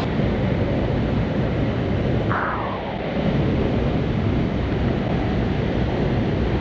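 Steady rush of river or waterfall water, with wind buffeting the microphone. A brief higher-pitched sound comes about two and a half seconds in.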